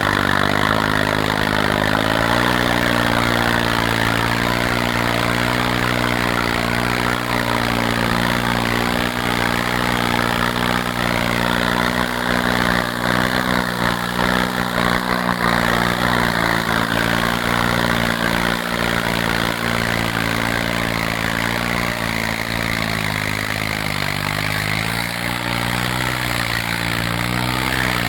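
John Deere tractor's diesel engine running steadily under heavy load. Its pitch sags and recovers briefly near the start, and again a few times near the end.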